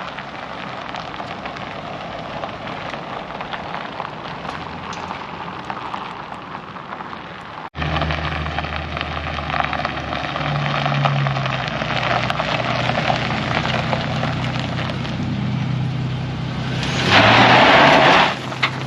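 Steady crackly hiss, then after an abrupt cut a motor vehicle's engine running with a steady low hum. A loud rushing surge lasting about a second comes near the end.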